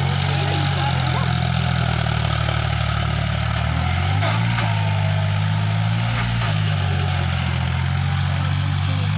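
John Deere tractor's diesel engine running steadily, its engine note shifting up about four seconds in and changing again a couple of seconds later.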